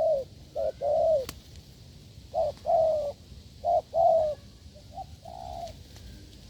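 Spotted dove giving the soft bowing coo ('gù'): low two-part coos, a short note then a longer one, repeated about four times, the last pair fainter. A single sharp click about a second in.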